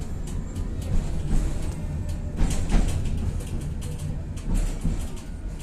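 Tatra-Yug K1M tram running, heard from inside the car: a steady low hum with scattered rattles and clicks, and a louder rush of noise about two and a half seconds in.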